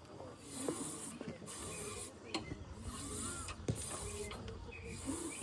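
Mechanical creaking and squeaking of moving parts over a low rumble, with a few sharp irregular clicks.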